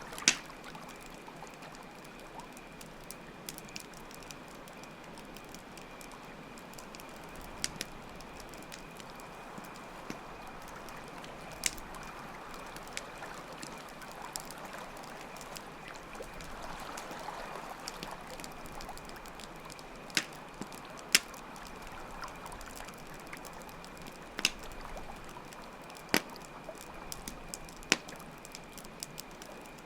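Campfire ambience: steady trickling water under a continuous high chirring of crickets, with sharp pops of a crackling campfire every few seconds, most of them in the second half.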